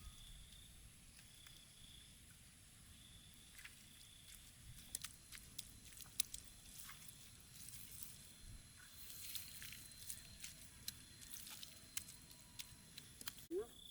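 Quiet outdoor ambience: scattered small sharp clicks and crackles, over a faint high insect trill that comes and goes. A short rising squeak near the end.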